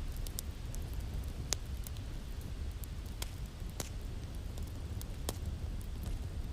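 Wood fire crackling in a fireplace: scattered sharp pops over a steady low rumble, the loudest pop about one and a half seconds in.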